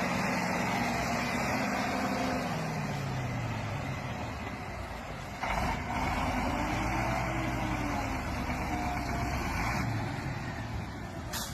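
Heavy logging truck's engine running under load as it hauls timber, its pitch falling and then rising and falling again as the engine speed changes. The sound gets louder about halfway through, and there is a short sharp click near the end.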